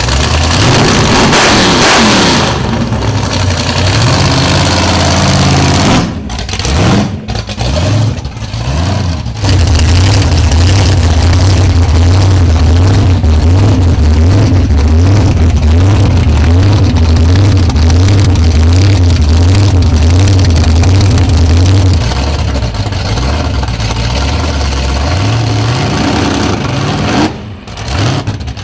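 Supercharged 572-cubic-inch all-aluminum Hemi V8 of a Dodge Charger restomod revving, a rise and fall in pitch, then a few short blips. It then settles into a loud idle with an even, rhythmic lope.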